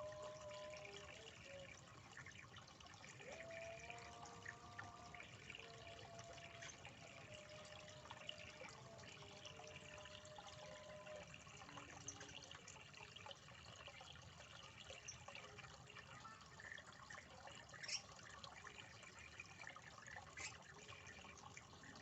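Near silence: a faint steady hiss with a few soft held tones in the first half.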